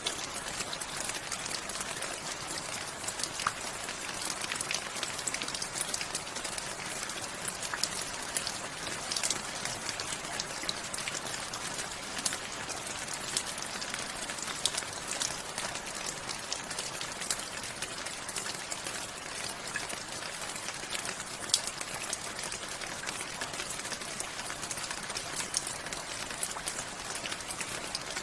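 Steady rain falling, with many distinct raindrop ticks and splats on hard surfaces over a continuous hiss.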